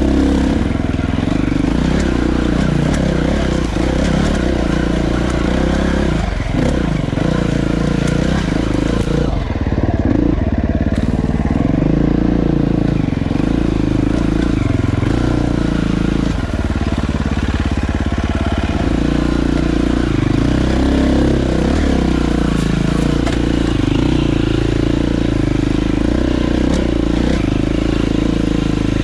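Dirt bike engine running while riding, its pitch rising and falling with throttle and gear changes.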